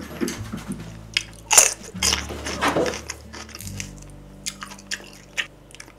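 Close-miked chewing of chewy grilled pork skin: many wet mouth clicks and smacks, the loudest about a second and a half in.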